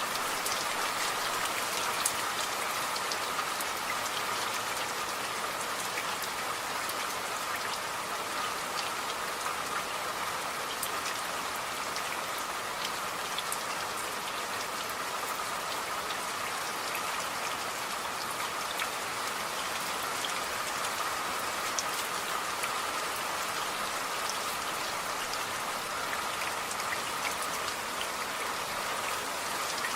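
Steady rain falling on a surface: a constant even hiss with many individual drops ticking through it.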